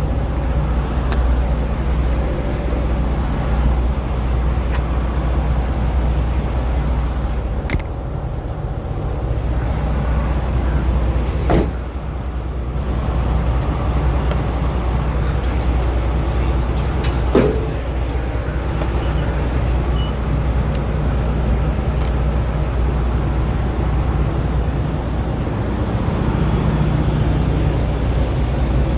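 Steady low rumble of a vehicle engine idling, with a few sharp clicks, the loudest about eleven and seventeen seconds in.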